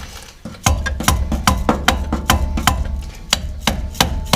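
Repeated sharp metallic taps, about three a second, as a brake caliper mounting bolt is tapped and worked back into its hole through the caliper's rubber sleeve.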